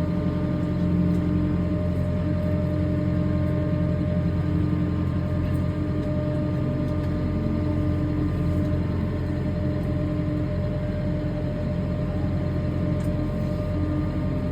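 Kubota M6 tractor's diesel engine running steadily at a fast idle, heard from inside the cab, while the tractor crawls in low gear up onto a trailer.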